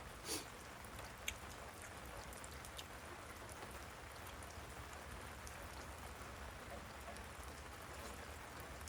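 Steady rain falling, coming down fairly heavily, with a couple of brief sharp ticks in the first second or so.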